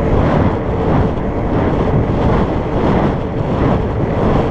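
Wind rushing over the microphone of a moving fat bike, mixed with the steady hum of its 4.8-inch Surly Knard tyres rolling on pavement.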